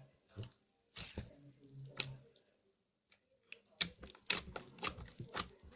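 Slime being squeezed and pressed by hand, making irregular wet clicks and pops, with a busy cluster of pops in the second half.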